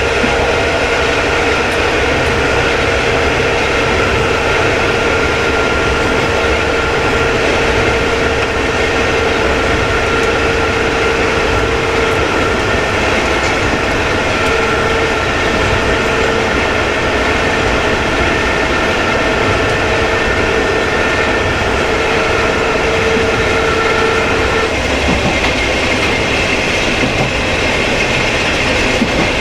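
KiHa 20 diesel railcar running along the line, heard from inside the cab: its diesel engine and drive running steadily, with the wheels on the rails. A steady whine in the running noise stops about 25 seconds in and a higher-pitched one takes over.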